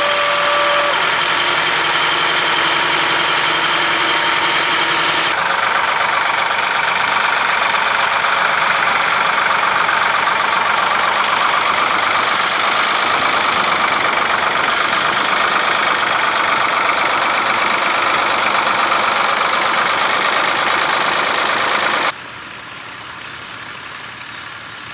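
Tractor engines running steadily. The sound changes abruptly about five seconds in, and near the end it drops suddenly to a much quieter engine noise.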